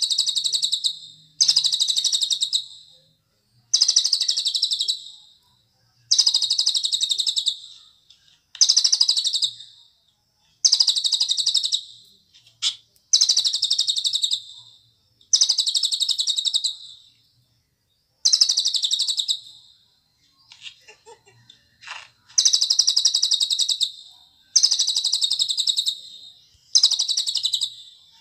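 Cililin songbird singing, repeating a high, fast, chattering song phrase of about one and a half to two seconds over and over with short gaps between.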